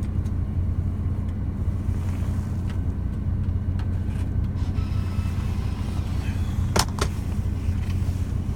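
Steady low hum inside a lorry cab at rest, with two sharp clicks in quick succession about seven seconds in.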